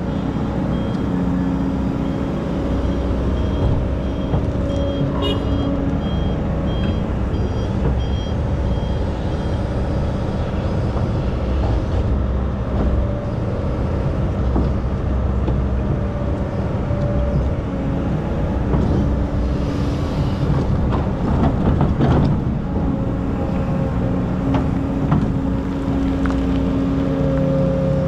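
Diesel engine of a hydraulic excavator working under load, its pitch rising and falling as it digs. A reversing alarm beeps steadily for roughly the first ten seconds, and a cluster of knocks and scrapes comes about twenty seconds in.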